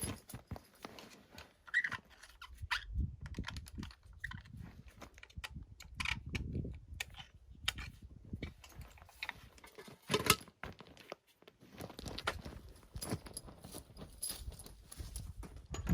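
Irregular clicks, knocks and scuffs of tools and gear being handled, with footsteps, and one sharper knock about ten seconds in.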